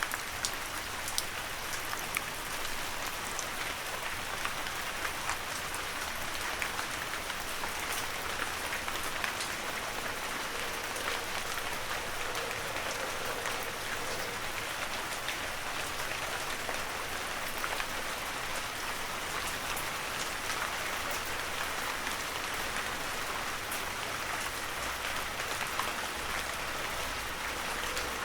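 Heavy rain falling steadily, a dense hiss with sharp ticks of single drops striking nearby surfaces.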